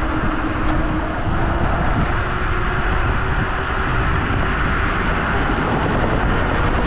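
Teewing Mars XTR electric scooter riding at speed: a steady rush of wind over the microphone with low tyre and road rumble.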